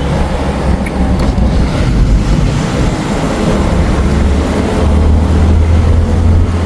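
A car driving on a hill road: steady low engine and road rumble that grows heavier about five seconds in, with wind buffeting the microphone.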